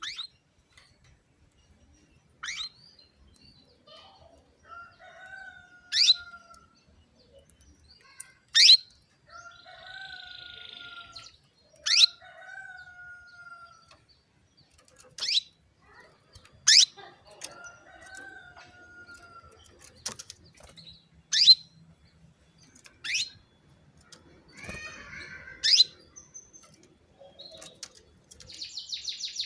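Female canary calling: short, sharp chirps that drop steeply in pitch, repeated every one to three seconds, with softer falling whistles between them. This is the call a hen gives to draw a male canary into song. Near the end a fast, dense high trill starts.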